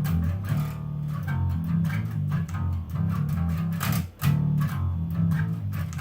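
Electric bass guitar playing the song's chorus bass line, a run of low notes with slides and pull-offs, over a band recording with drums.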